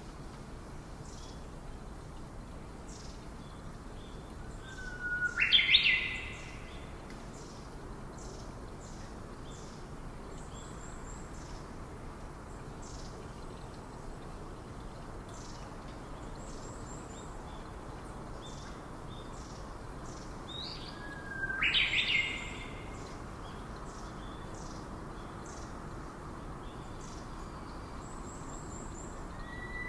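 Forest birds calling. One bird gives a loud call twice, about five seconds in and again around twenty-two seconds, each a short rising whistle that ends in a sharp crack, over faint high chirping that repeats steadily.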